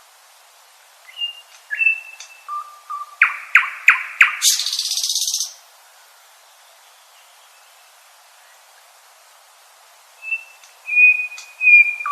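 Common nightingale singing: a phrase of thin whistles and a low note, then a run of loud, sharp notes and a fast rattling trill about a second long. After a pause of several seconds a second phrase begins near the end.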